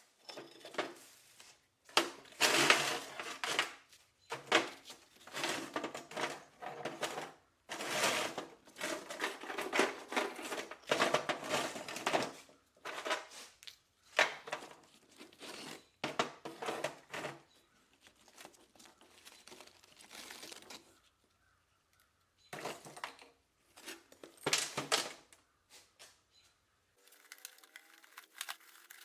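Irregular bursts of crinkling and tearing, each lasting a second or two, as a material is handled and pulled apart.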